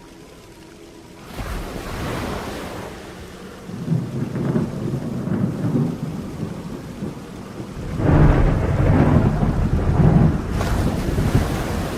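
Steady rain with thunder rolling through it: a rumble about four seconds in, and a louder, longer roll of thunder about two-thirds of the way through.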